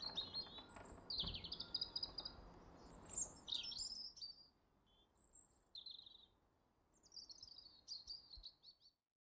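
Birdsong: a run of high chirps, quick trills and sweeping whistled phrases, over a faint hiss for the first few seconds, cutting off abruptly near the end.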